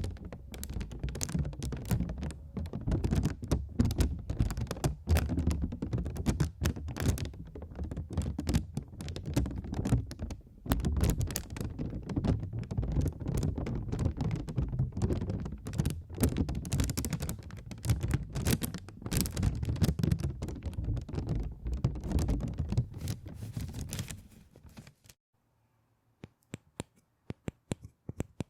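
Fast, continuous typing on a keyboard, a dense run of key clicks with dull thuds, that stops suddenly about 25 seconds in; a few faint clicks follow near the end.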